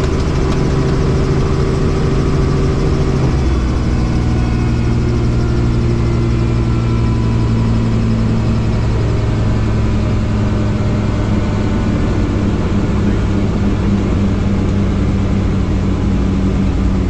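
Helicopter engine and rotors running steadily, a loud constant hum whose tones shift in pitch about three and a half seconds in.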